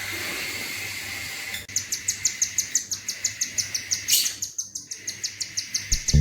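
Budgerigar chicks chirping in a rapid, even series of high begging calls, about five a second, while being fed by a parent bird. One louder knock comes about four seconds in.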